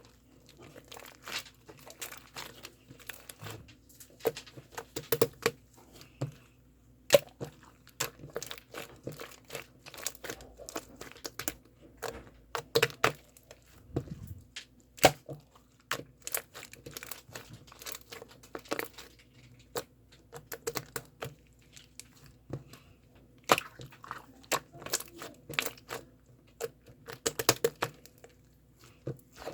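Irregular crinkling and crackling with sharp clicks, like plastic or paper being handled and crumpled, over a faint steady hum.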